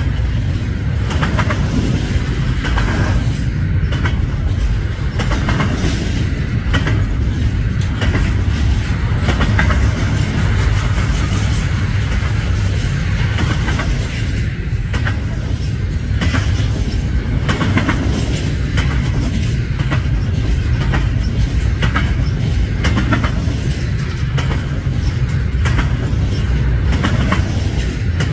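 Freight train cars rolling past with a steady low rumble, the wheels clacking over rail joints every second or two.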